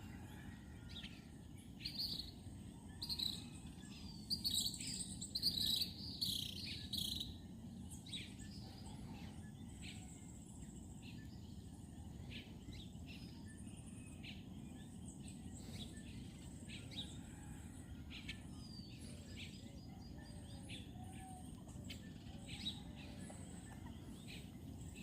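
Birds chirping outdoors, busiest between about two and seven seconds in, over a steady low background noise and a faint, high, steady insect trill.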